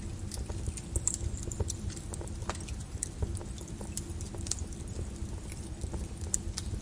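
Flowing lava crackling and popping, with irregular sharp cracks over a low rumble.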